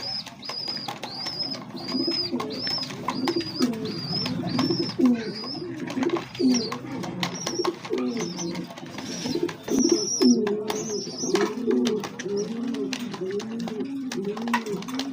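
Pigeons cooing, low rolling coos repeating one after another, with high thin peeps at about two a second during the first five seconds and again later, and scattered short clicks.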